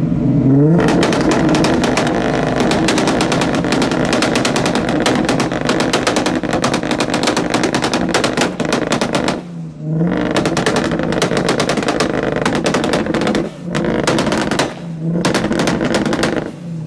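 Car engine revved hard several times. Each rev climbs and then breaks into a long run of rapid, machine-gun-like crackling and popping from the exhaust, with brief drops in between.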